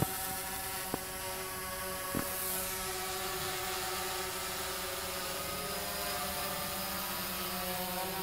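DJI Phantom 2 Vision quadcopter in flight: its motors and large propellers whine steadily with a buzzing hum, the pitch wavering slightly, with two faint clicks in the first couple of seconds.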